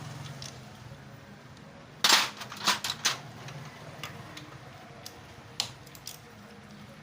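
Metal tools and small engine parts knocking and clicking against each other during motorcycle engine work: one sharp clack about two seconds in, a quick run of clicks just after, and one more near the end.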